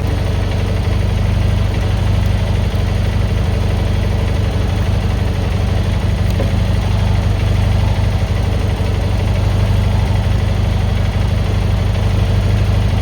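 An engine idling steadily, with an even low hum that does not change.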